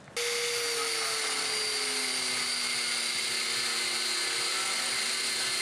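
Electric power tool motor running steadily at high speed, starting abruptly, with a whining tone that drops slightly in pitch over the first few seconds.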